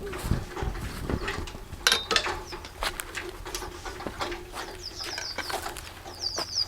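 A small bird trapped in a vent pipe, chirping in a quick run of short, high calls near the end, with scattered knocks and scrapes of the pipe being handled.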